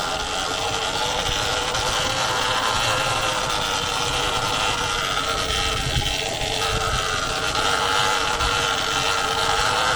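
Surron Ultra Bee electric dirt bike riding along: the electric motor and chain drive give a steady whine over rolling noise, its pitch shifting a little as the speed changes.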